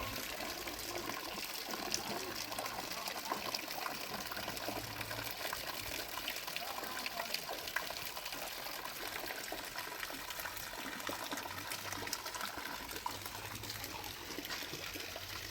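Steady rain falling, with many small drops and drips pattering throughout.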